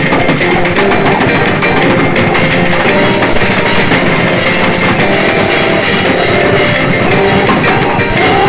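Loud, noisy lo-fi goregrind/noise rock recording: guitar playing a melody line over bass and pounding drums, with a second, non-rhythmic drum track layered on top for extra noise.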